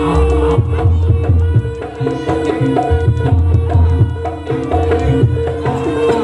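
Live jaranan gamelan music: hand drums (kendang) playing a fast, dense rhythm over a held tone and a melody of higher ringing notes.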